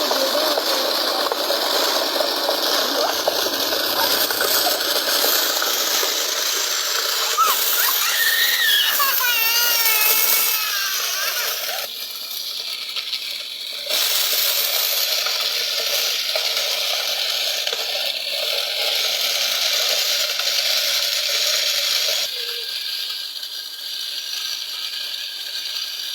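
A homemade toy tractor-driven wheat thresher running: its small motor and mechanism give a steady, loud rattle. It drops away for a couple of seconds around the middle and then picks up again.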